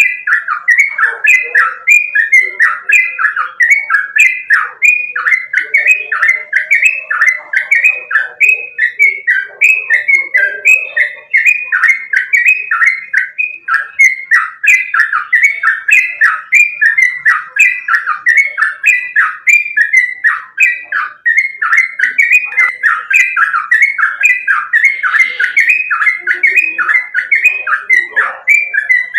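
Yellow-vented bulbul (trucukan) singing a fast, unbroken run of short, bubbly notes that slide downward, about two to three a second, as used to prompt caged bulbuls to sing.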